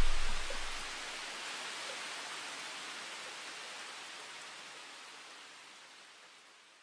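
A steady rushing hiss that fades away to silence over several seconds.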